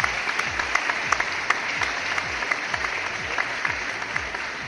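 Audience applauding: a steady clatter of many hands clapping, easing off slightly toward the end.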